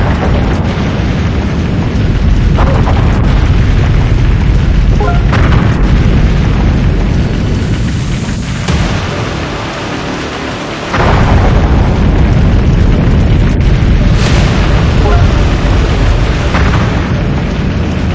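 Strong storm wind buffeting the microphone: a loud, continuous rumbling noise, heaviest in the low end, that eases for a couple of seconds past the middle and then comes back suddenly.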